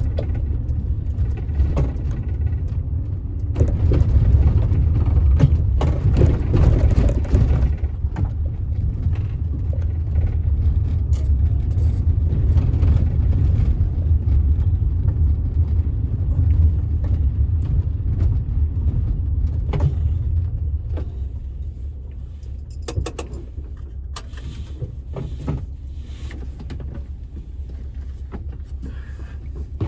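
Cabin sound of a 1984 VW Westfalia camper van driving on a rough road: a steady low rumble of engine and road, with rattles and knocks. It is loudest in the first eight seconds and quieter after about twenty seconds in.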